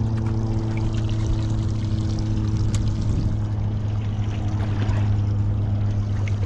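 Boat motor running steadily with a low, even hum, with water splashing and trickling against the hull.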